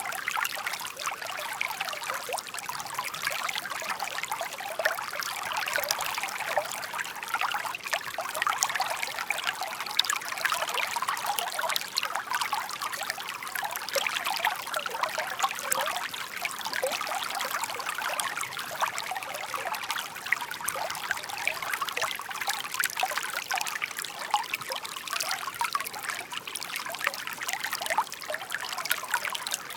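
Shallow brook babbling and trickling steadily, many small splashes running together.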